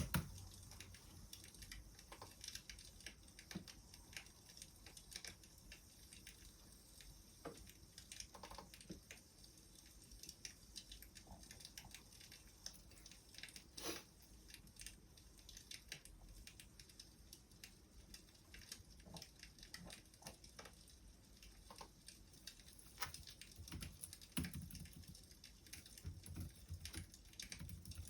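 Faint crackling of a wood fire: irregular small snaps and pops, a few slightly louder ones scattered through.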